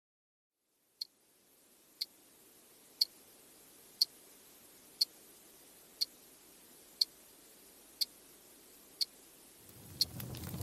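A clock ticking evenly, once a second, starting about a second in over a faint hiss. Near the end the crackle of a wood fire fades in beneath the ticks.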